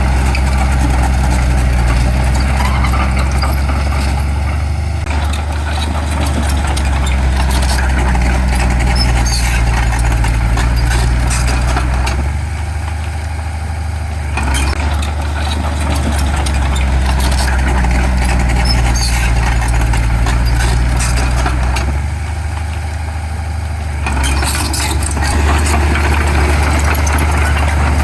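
Heavy earthmoving machine's diesel engine running steadily under load, easing off twice for about two seconds.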